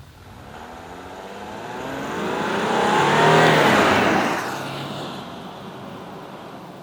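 The 3.0-litre turbo-diesel V6 of a 2019 Audi Q5 50 TDI driving past under power: its engine note and tyre noise grow louder to a peak about three seconds in, shifting in pitch as it passes, then fade away.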